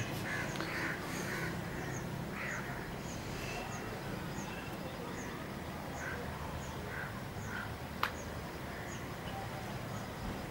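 Birds chirping over a steady low outdoor hum, with a short high chirp repeating about twice a second and other calls scattered between. One sharp click about eight seconds in.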